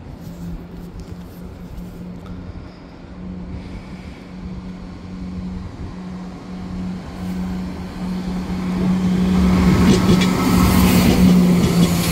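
An EMR Regional diesel multiple-unit train approaching and running past over the level crossing. It grows steadily louder over the last few seconds, with the clack of its wheels over the rail joints. A steady low hum lies underneath.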